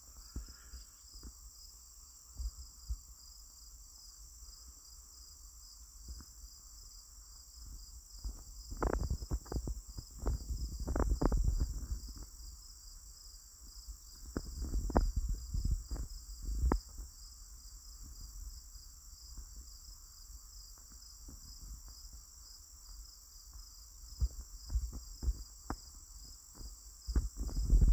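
A steady, high chorus of crickets and other insects trilling. Over it come irregular bursts of crunching footsteps and rustling through forest undergrowth, heaviest about a third and half way in and again near the end.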